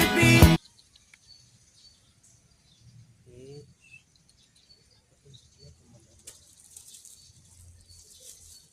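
Music cuts off abruptly about half a second in. Faint outdoor ambience follows, with small birds chirping softly and a low rumble underneath.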